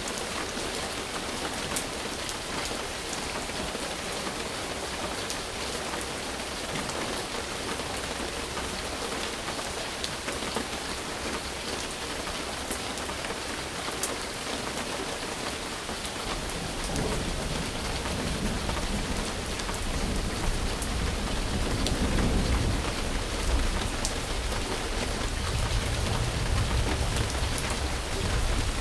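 Steady rain falling, an even hiss dotted with the ticks of individual drops. About halfway through, a low rolling rumble of distant thunder comes in and builds.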